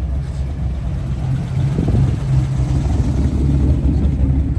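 Car engine running near idle with a steady low rumble, growing a little louder about two seconds in.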